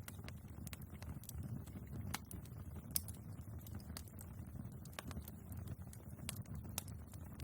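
Wood fire burning in a fireplace: irregular crackles and sharp pops over a low, steady rumble of flames, with the loudest pop about three seconds in.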